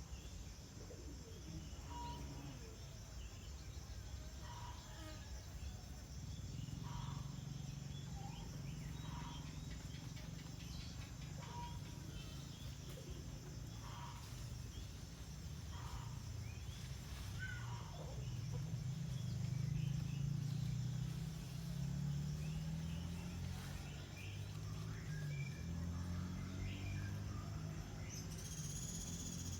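Outdoor ambience: a short chirp repeating about every one and a half to two seconds over a low rumble, with a brief insect buzz near the end.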